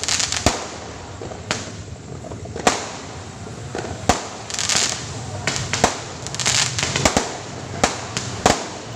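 Fireworks going off: a string of sharp, irregularly spaced bangs, about ten in all, with crackling, hissing stretches between them.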